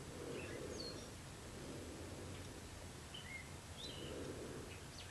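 Faint steady hiss with a few short, high bird chirps scattered through it, and a low muffled murmur that swells and fades a few times.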